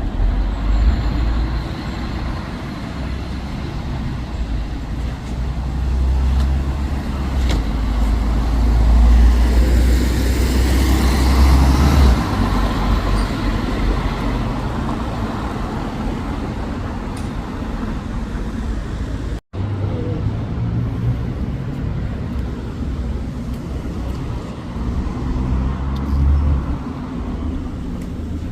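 Road traffic with a large bus engine running close by: a low drone that swells to its loudest around the middle as the vehicle moves past, then settles back. The sound drops out for an instant about two-thirds of the way through.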